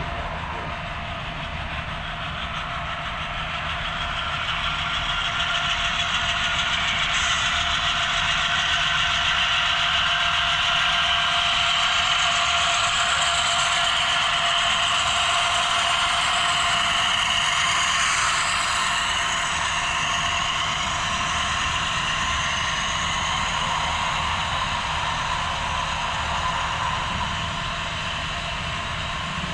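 HO scale model train running along the layout track: a steady rolling and motor noise that grows louder over the first several seconds, then eases off a little.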